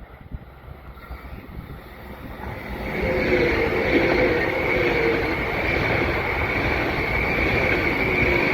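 A train passing close by on the lakeside line, growing loud about three seconds in, with a steady high-pitched tone running over the rolling noise. Wind rumbles on the microphone.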